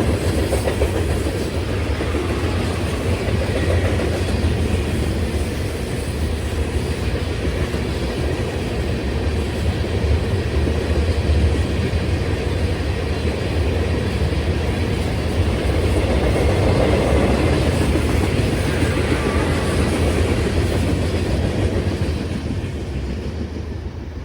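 Freight train's cars rolling past: a steady rumble and clatter of steel wheels over the rails, fading near the end.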